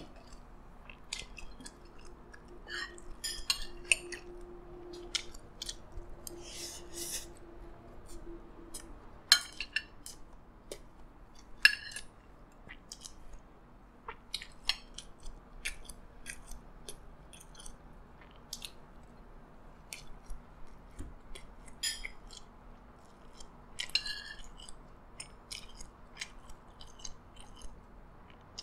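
Close-up chewing and mouth sounds of someone eating fried rice, with scattered sharp clinks of a spoon and fork against a plate.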